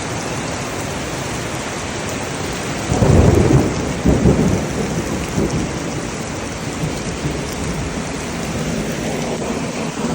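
Heavy rain falling steadily, with a low rumble of thunder breaking in about three seconds in, peaking twice and fading over a few seconds.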